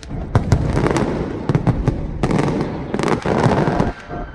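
Aerial fireworks going off in quick succession: a dense run of sharp bangs and crackling, with a short lull near the end.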